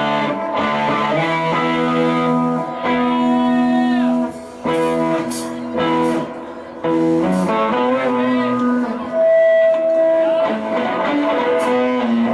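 Live band music led by an electric guitar playing held notes with string bends, with a few sharp hits and brief drop-outs in between.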